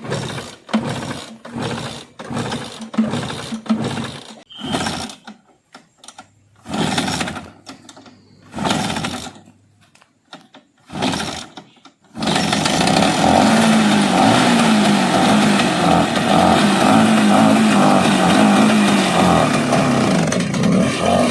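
Bajaj Chetak's two-stroke single-cylinder engine being kick-started cold after some twelve years standing unused: about a dozen kicks, each a short burst, without it catching, then about twelve seconds in it fires and keeps running, its pitch wavering up and down.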